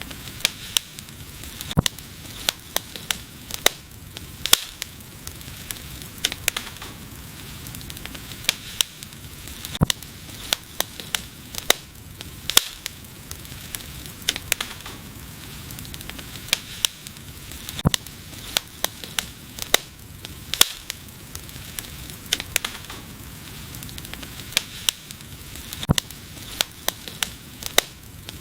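Wood fire burning with a steady hiss and frequent irregular sharp crackles and pops, several a second.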